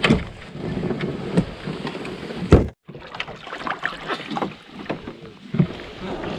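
Canoes and gear being handled at the water's edge: irregular knocks and bumps against the hull, with water and wind on the microphone. One sharp knock about two and a half seconds in is the loudest.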